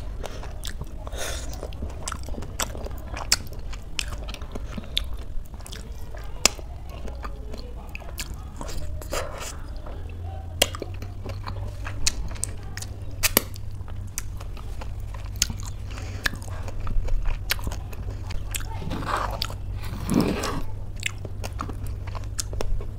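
A person chewing and biting dragon fruit and oatmeal, with many short sharp mouth clicks and a few crunches.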